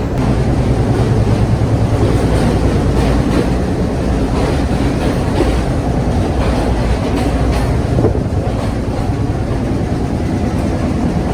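Passenger train running along the line: a steady low rumble of the carriage, with faint clatter of wheels on the track.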